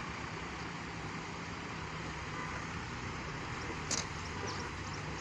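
Car engines running steadily in slow traffic over a steady rushing noise, with one short sharp click about four seconds in.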